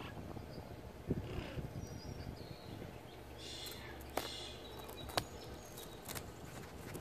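Faint high bird chirps over low rumbling handling noise, with two sharp clicks about a second apart past the middle.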